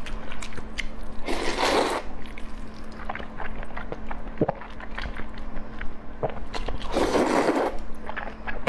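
A person chewing and biting food close to the microphone, with many short wet clicks and smacks. There are two longer noisy stretches, one about a second and a half in and one about seven seconds in.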